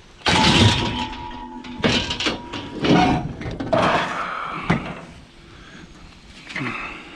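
Junk being handled and set down: a run of irregular knocks and clatters, with a ringing tone that lingers for about two seconds after the first loud knock.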